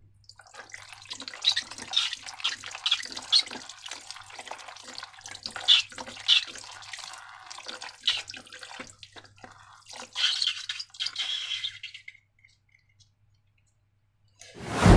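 Slime being worked by hand, giving a run of short wet, sticky clicks and squelches with a faint steady hum underneath. It goes quiet for about two seconds, then a louder burst of noise begins just before the end.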